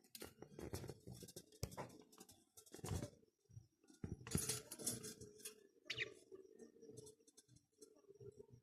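Java sparrows making irregular rustling, tapping and clicking sounds as they move about, with one short chirp about six seconds in.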